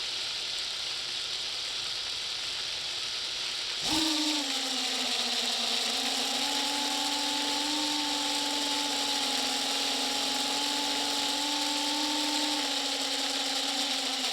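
A small motor starts abruptly about four seconds in and runs at a steady pitch, over a steady hiss.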